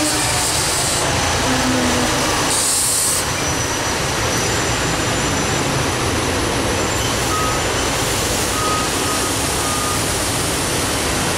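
Electric train passing close by at speed: a loud, steady rush of wheels on rail, with a short hiss about two and a half seconds in.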